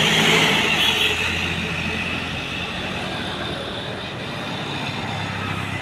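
A heavy vehicle's engine running with a steady low drone under road noise, loudest at first and slowly getting quieter.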